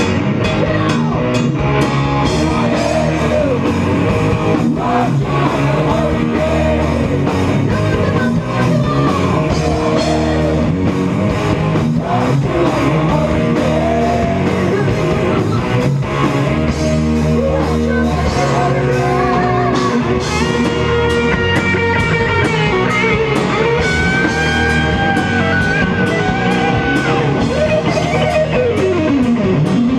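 Live rock band playing: distorted electric guitars over a drum kit, with a lead guitar holding high, bending notes in the second half.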